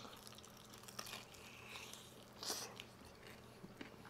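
Faint, close-miked chewing and biting into bone-in chicken wings, with small mouth clicks and a few soft bites, the loudest about two and a half seconds in.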